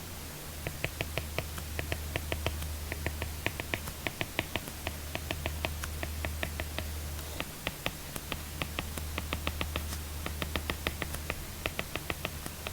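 Apple Pencil tip clicking on an iPad screen in quick runs of taps, the pattern of handwriting strokes, with two short pauses. A steady low hum sits underneath.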